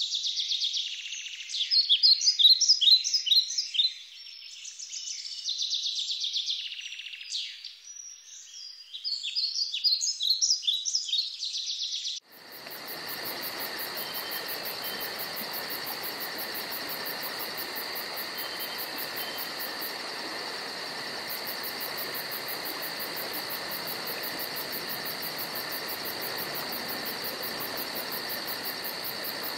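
Small birds chirping and singing in quick, rapidly repeated phrases. About twelve seconds in, the sound switches abruptly to a steady insect chorus, crickets trilling in a fast even pulse over a steady hiss.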